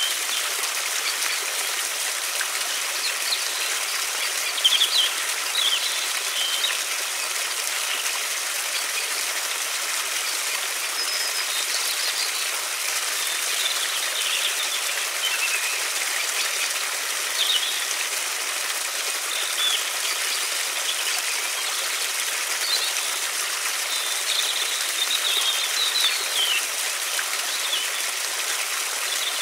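A river flowing with a steady rush, with small birds chirping briefly now and then over it.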